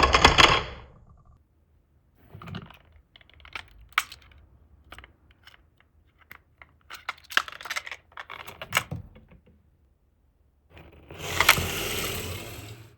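Glass marbles running down a HABA wooden marble run: a loud rolling sound dies away in the first second, then a string of irregular clicks and clacks as marbles knock through the track pieces, and near the end a steady rolling rattle starts up.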